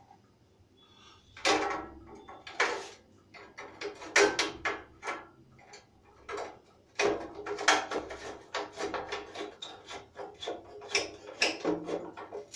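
Bursts of irregular mechanical clicking and clattering, on and off, with short quiet gaps between them.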